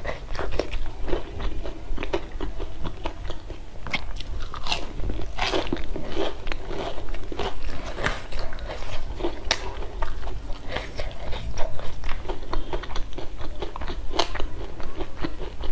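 Close-miked chewing and crunching of crisp fried arrowroot-flower fritters, a dense run of small crackles and crunches all through.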